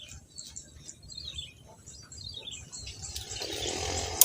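Faint, short bird chirps, each falling slightly in pitch, repeating through the background; a low murmur rises near the end.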